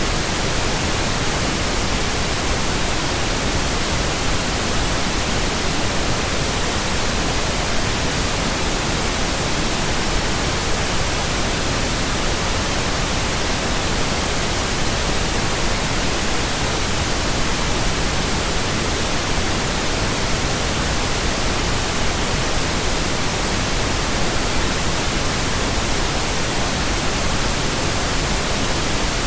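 Steady synthetic pink noise: an even, unchanging hiss spread across all pitches, switching on abruptly out of silence.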